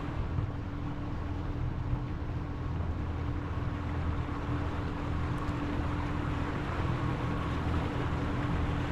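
Boat engine running steadily underway: a low, even hum with a steady higher tone, over a hiss of wind and water.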